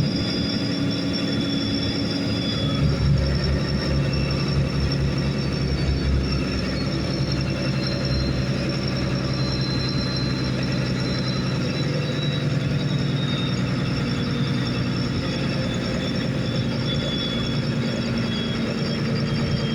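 Boat engine running steadily, with a thin high whine above it; the low rumble grows a few seconds in.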